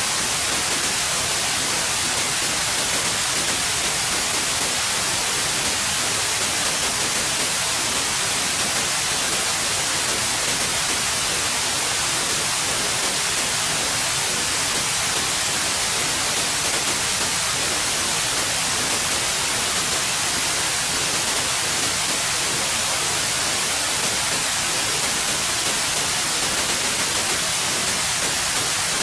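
Steady, continuous white noise: an even hiss, strongest in the high frequencies, with no change in level.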